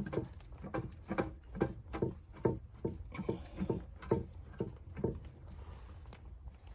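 Footsteps in deep snow at a brisk, even pace, a little over two steps a second, stopping about five seconds in.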